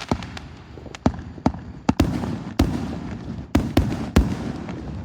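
A 130-shot consumer fireworks cake, the Warlock 130, firing: about ten sharp bangs in five seconds at uneven spacing, with a low rumble between them.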